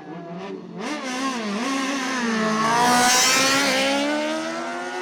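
Racing superbike engine revving hard as it accelerates past, loudest about three seconds in, its pitch wavering early and then climbing steadily through the second half.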